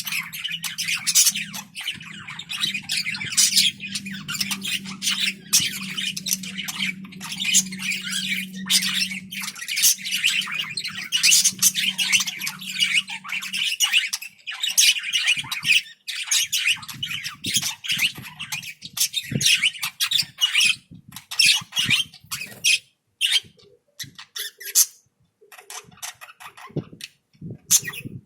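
Small pet parrots chattering, with rapid chirps and harsh squawks that come thick and fast, then thin out near the end. A steady low hum runs underneath and stops about halfway through.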